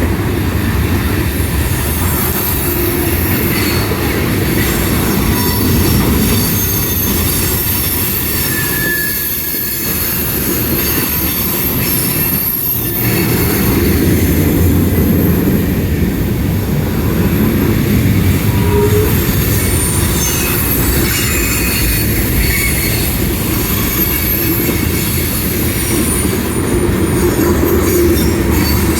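Freight cars of a mixed freight train rolling past: a steady loud rumble and rattle of wheels on rail, with short high-pitched wheel squeals coming and going.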